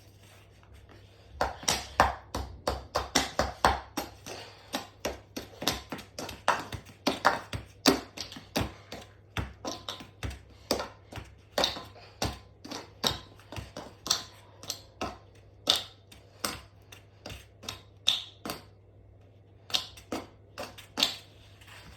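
A long, irregular series of sharp clicks and knocks, about two to three a second, with a short pause near the end.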